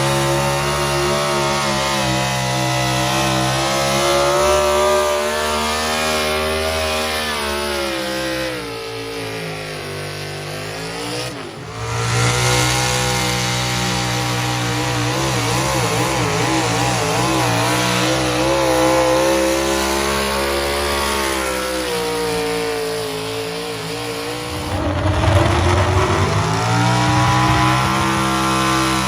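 Engine of a pulling vehicle running hard under load, its pitch sagging twice and climbing back each time.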